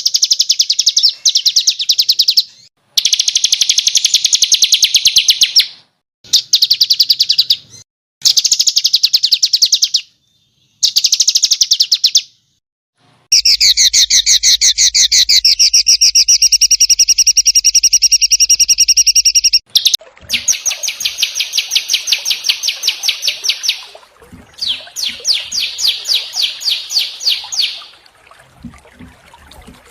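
Small songbirds giving fast, harsh, rattling trills in bursts of one to two seconds, broken by short silences, with one long unbroken trill of about six seconds in the middle. This is a 'burcil' masteran recording of rapid-fire harsh notes, the kind used to tutor cage songbirds.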